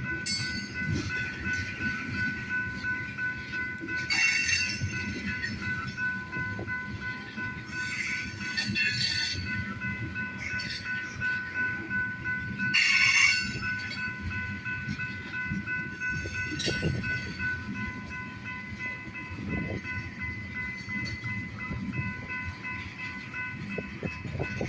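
A train rolling slowly on the rails, with a steady low rumble and a high squeal held throughout. A few brief noisy bursts break in, the loudest about 13 seconds in.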